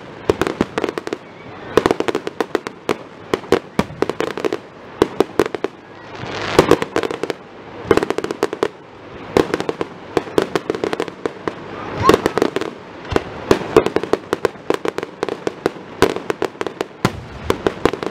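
Aerial fireworks display: a fast, uneven stream of shell bursts, bangs and crackling, thickening into dense volleys about six seconds in and again about twelve seconds in.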